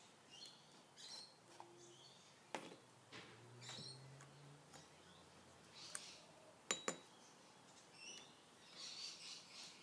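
Near silence, with faint bird chirps in the background and a few sharp clicks, the loudest two close together near the end.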